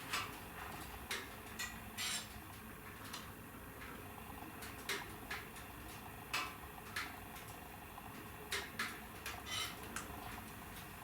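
Wood fire burning in a fireplace, crackling with irregular sharp pops and snaps, roughly one or two a second, over a steady low hiss of flame.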